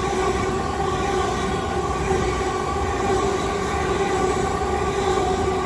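Southeastern Class 375 Electrostar electric multiple unit running through the station: a steady electric hum of several held tones over the rumble of wheels on rails.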